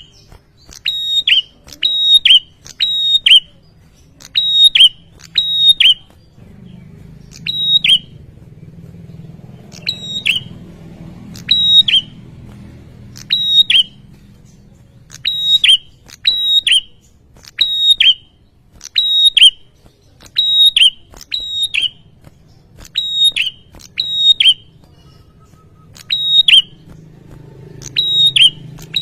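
Male prinia (prenjak) singing: loud, sharp, whistled notes repeated about once a second, with a couple of short pauses.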